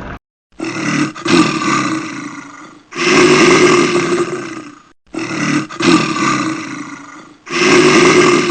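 Big cat roaring: four loud roars, each starting suddenly and fading away over about two seconds. The second pair is an exact repeat of the first, so the same recording plays twice.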